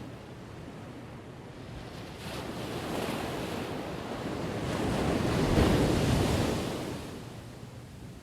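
Ocean waves crashing: a wave swells from about two seconds in, breaks loudest around five to six seconds, and falls back to a low, steady wash near the end.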